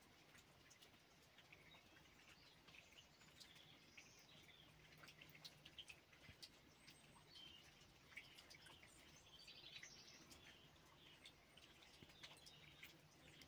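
Faint chirping of small birds, many short scattered chirps, over scattered light ticks and a faint steady low hum.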